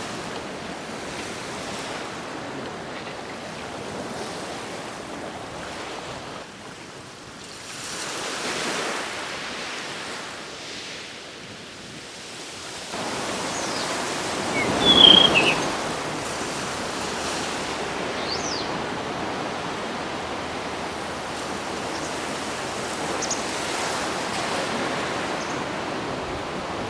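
Sea waves washing onto the shore, swelling and ebbing, with one wave surge loudest about halfway through.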